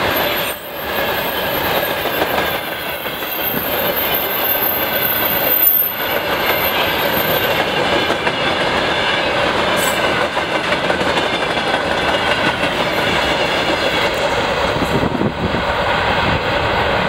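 Freight train of mostly open gondola wagons rolling past at speed: a steady rumble and clatter of steel wheels on the rails, with a thin high wheel squeal on the curve during the first half.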